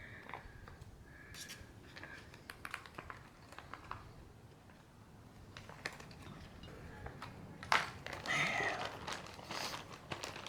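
Plastic freezer bag crinkling as it is squeezed and kneaded to mix pasta with cheese sauce and chicken: scattered small crackles, with a louder stretch of rustling about eight seconds in.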